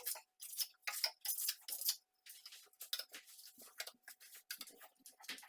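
Steel plastering trowel scraping and tapping as decorative plaster is worked on a wall: a run of short, irregular scrapes and clicks.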